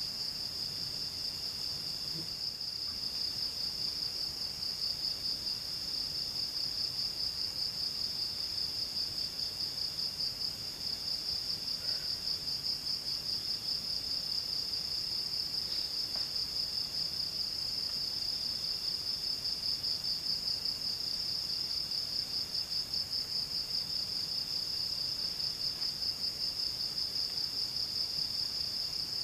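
Insects trilling without a break in a high, fast-pulsing chorus, with a second, fainter insect call starting and stopping in phrases just below it.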